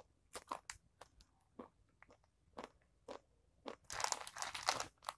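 Mamee Monster crunchy snack noodles being chewed close to the mouth: scattered crisp crunches, with a denser run of crunching about four seconds in.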